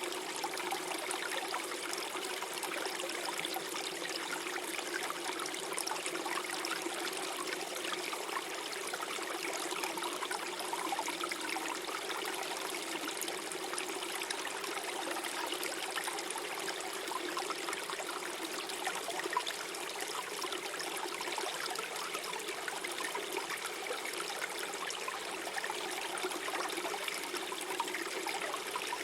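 Small stream flowing over stones: a steady, even rush of water with light gurgling and trickling.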